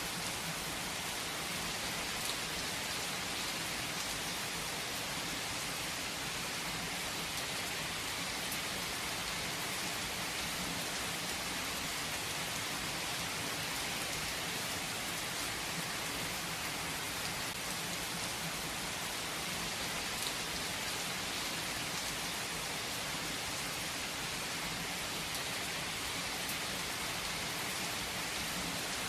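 Steady rain falling, an even hiss of many drops with the odd sharper drop tick now and then.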